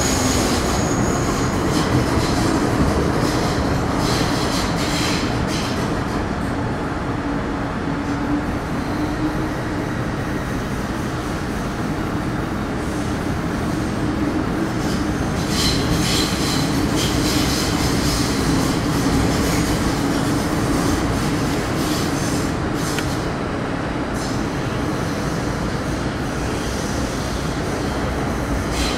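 Interior running noise of an MTR Metro Cammell M-Train (CM-Stock) electric multiple unit with GEC GTO chopper traction: steady wheel-on-rail rumble with a low hum, and a brief high-pitched wheel squeal about halfway through.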